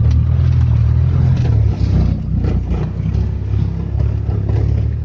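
Engine of a homemade Oka-based buggy running hard under load as it drives over rough ground, its pitch shifting about two seconds in, with scattered knocks and jolts from the chassis.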